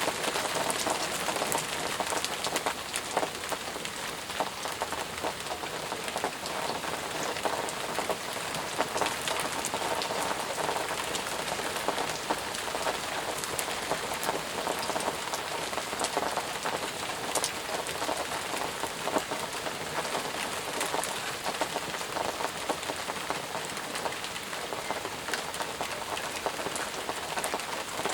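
Steady heavy rain falling, a constant hiss of water with many individual drops pattering on surfaces close by.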